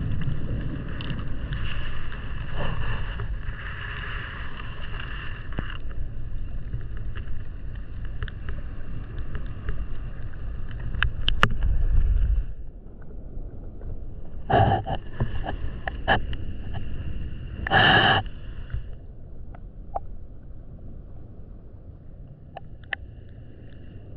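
Underwater water noise on a reef: a low rumble with scattered clicks and crackles, over a steady high whine that drops out about halfway and returns briefly. Two short loud rushes come a few seconds apart in the second half.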